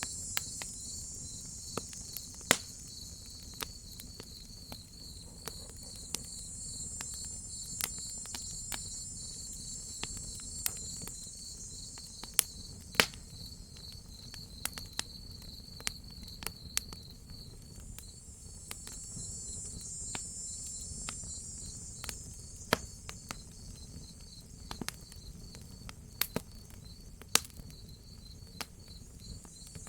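Crickets chirping in a steady pulsing rhythm, with a higher insect buzz that swells and fades in long waves. Over them, a wood fire crackles and pops at irregular moments, a few pops much sharper than the rest.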